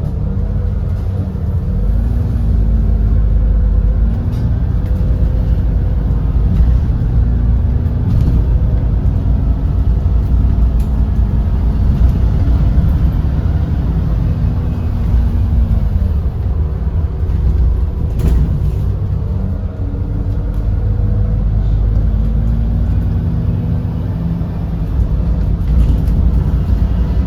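GX12P natural-gas engine of an Edison Motors Smart 110G city bus running under way, heard from inside the bus; its pitch rises and falls several times as the bus speeds up and slows. A few short knocks stand out.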